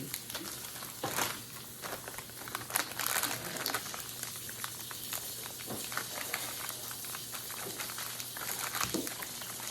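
Kitchen handling noises: scattered light clicks and knocks with soft rustling, over a faint steady hum.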